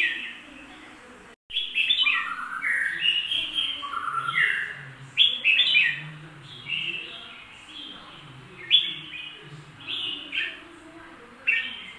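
Red-whiskered bulbul singing: short, bright phrases of chirping, gliding whistled notes, given in quick runs early on and then every second or two. There is a brief dropout in the sound about a second and a half in.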